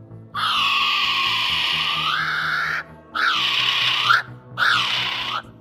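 Common kiwi calling: a series of shrill whistled cries, each rising in pitch at its end, the first long and the next ones shorter, over a low background music bed.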